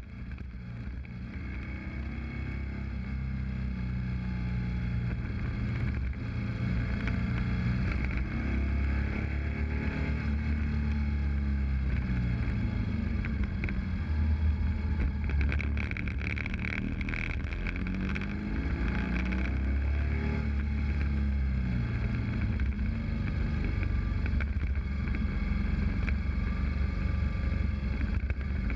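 BMW R1200GS boxer-twin engine running on a mountain descent, its note slowly falling and rising again several times, with wind rushing past. The sound fades in over the first few seconds.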